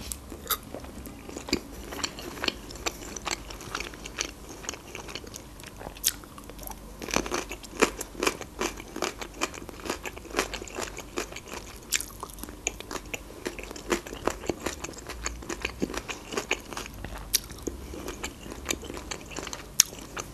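Close-miked eating of fried khinkali: chewing with many sharp, crisp crunches and bites. The crunches come thicker and louder from about seven seconds in.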